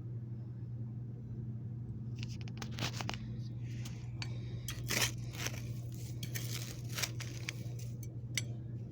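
Crunching, scraping strokes of a tool digging into soil, starting about two seconds in and irregular, the loudest about halfway, over a steady low hum.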